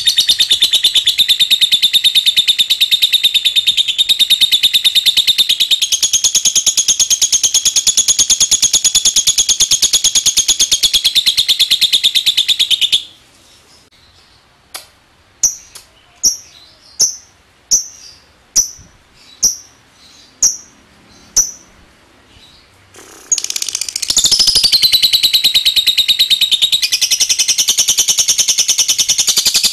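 Lovebird giving a long, unbroken, rapid high chattering trill (the 'ngekek'). It breaks off about 13 s in, and the bird then makes about ten sharp single ticks at a steady pace (the 'ngetik'). The long chatter starts up again near the end.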